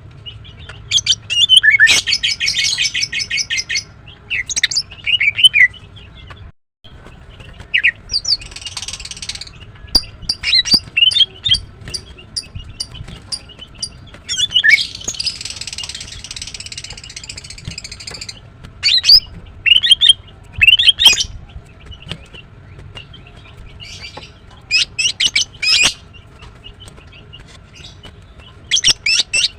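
Female greater green leafbird chirping in bursts of rapid, high trilled notes, the longest starting about a second in and again around fifteen seconds, with scattered short chirps between.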